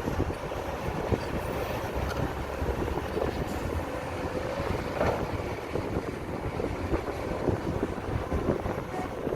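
Heavy diesel earthmoving machinery running at a landfill tip, with a steady whine and irregular knocks and clanks over the engine noise.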